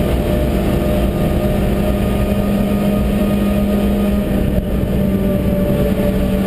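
Suzuki Swift's four-cylinder engine running at steady revs under load, heard from inside the cabin together with road and wind noise. The engine note holds one steady pitch, with a brief dip about four and a half seconds in.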